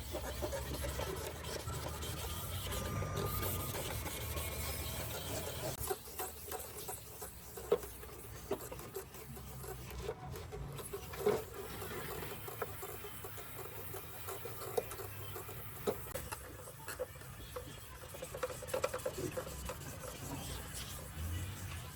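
Rubbing and scraping on a hard surface, steady for about the first six seconds, then quieter and broken up by scattered clicks and knocks.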